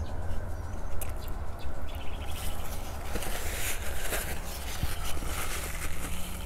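Bite and chewing of a hot dog in a bun, with a few sharp clicks about a second in and rougher mouth noise from about two and a half seconds, over a steady low rumble of road traffic.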